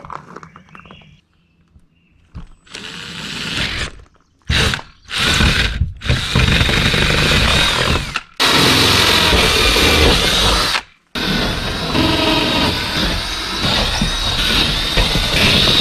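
Handheld power tool run in repeated bursts, its trigger pulled and released about five times, each run a loud, steady whine with a grinding noise.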